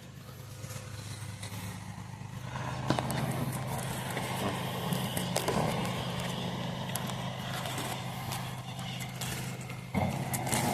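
Vacuum cleaner running steadily with a low hum, sucking a pull line through a long run of electrical conduit. It gets louder a couple of seconds in, with a few light clicks over it.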